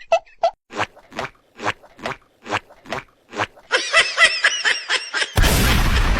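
Cartoon sound effects: a run of short, evenly spaced taps, about two or three a second, then a quicker burst of squeaky chirping sounds, then a loud noisy whoosh about five seconds in.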